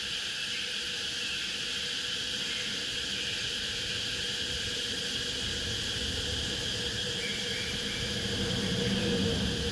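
Cicadas singing in a steady, unbroken drone, with a low rumble swelling briefly near the end.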